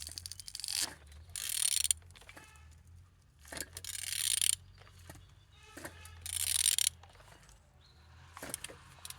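Nissan YD22DDTI four-cylinder diesel engine being turned over by hand with a ratchet wrench on the crankshaft: about four bursts of ratchet clicking, each under a second long, as the handle is worked. The engine turns freely.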